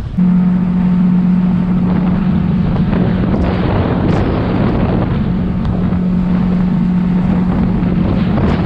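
Boat motor running steadily with a constant low hum, under a wash of wind and water noise; it starts suddenly just after the beginning.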